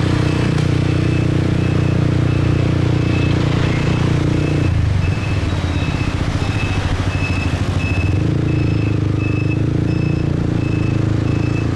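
Motorbike engine running under way in traffic; the throttle eases off about five seconds in and the engine builds again near eight seconds. A short high beep repeats about twice a second through it.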